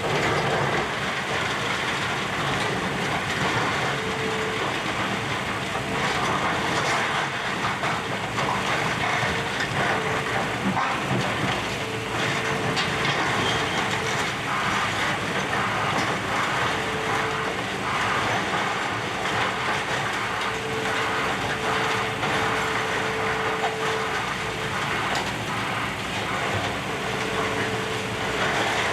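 Excavator demolishing a building: the machine runs steadily under the constant crunch and clatter of breaking debris, with a whining tone that comes and goes several times.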